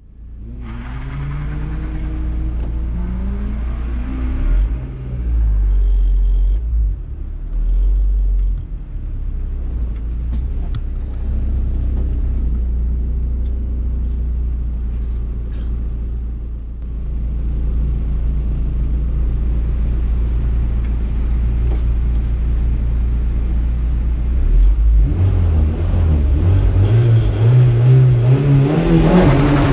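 Toyota MR-S's swapped-in 2ZZ inline-four engine heard from on board. It revs up briefly at first, then runs at a steady low idle, and near the end revs up hard as the car pulls away accelerating.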